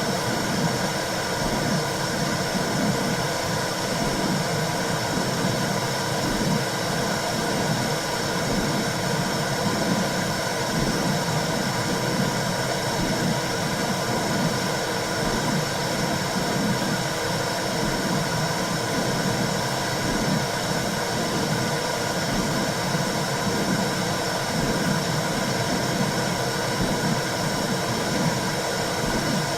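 Womb sound for soothing a newborn: a steady, low-pitched whooshing noise that runs on without a break.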